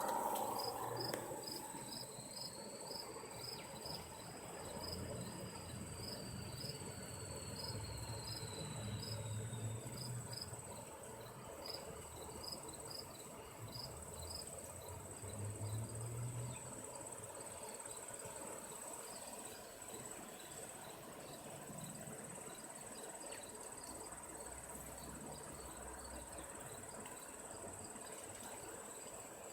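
Insects chirping outdoors: a steady high buzz with a regular chirp repeating about twice a second.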